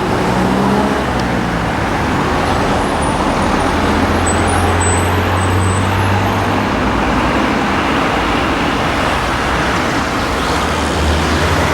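Steady, loud rushing noise with a low hum. Faint, short, high chirps of small birds come through it about three to six seconds in.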